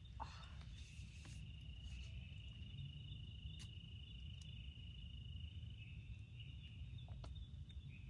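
An insect trilling steadily at a high pitch, weakening about six seconds in, over a low steady rumble with a few faint ticks.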